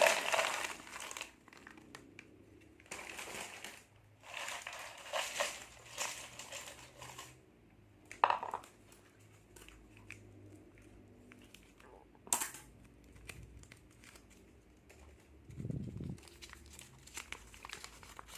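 Plastic snack packets crinkling and rustling in several bursts as they are handled and opened, with a sharp click about twelve seconds in and a dull thump near the end.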